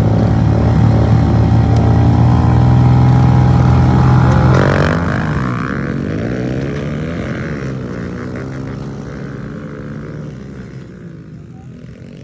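Pit bike engines running at steady high revs, then from about five seconds in revving up and down through the gears and fading as the bikes pull away.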